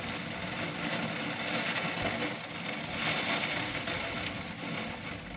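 Steady rush of rain and wind with fine crackling and a low rumble underneath as a thunderstorm sets in.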